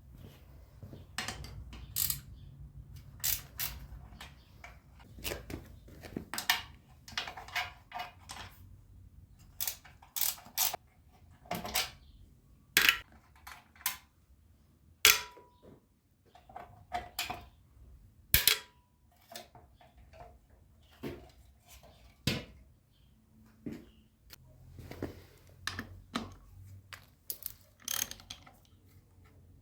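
Irregular clinks and knocks of hand tools and metal parts being handled while working on a motorcycle's front forks, some strikes ringing briefly.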